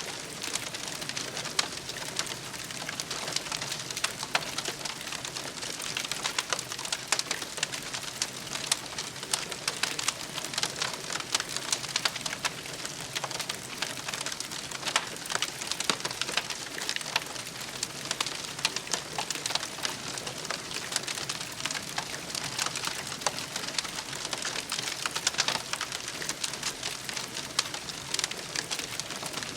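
Wood campfire crackling: a steady hiss dense with irregular small pops and snaps.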